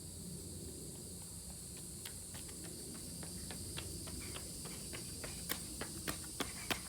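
A steady high-pitched hiss, with a low rumble underneath and sharp clicks that come more and more often in the last few seconds.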